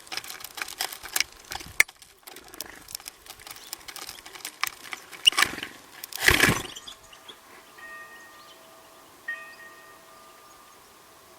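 Birds at a feeder: rapid small taps and clicks, with a brief loud fluttering rush about six seconds in. Near the end, two ringing chime-like tones start a second or so apart and hang on.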